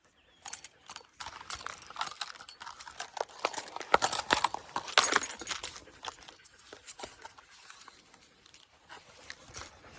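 Irregular crunching steps and clicks on a forest trail, with the light metallic jingle of a dog's collar tags, loudest around four to five seconds in.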